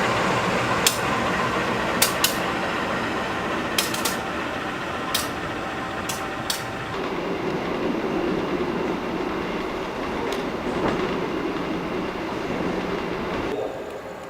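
Passenger train running on the rails, its wheels clicking over rail joints in pairs about every two seconds. The clicking stops about six and a half seconds in and the steady running noise goes on, then drops off suddenly near the end.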